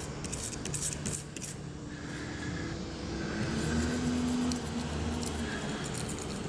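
Short scraping strokes of a carbon-tipped razor blade shaving paint overspray off a car's clear coat, over a steady low hum of a running vehicle that swells in the middle.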